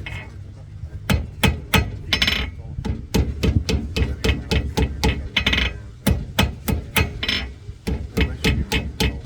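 Blacksmith's hand hammer striking metal on an anvil in quick runs of blows, about three a second, forging a one-piece hummingbird. The blows start about a second in and break briefly near six seconds.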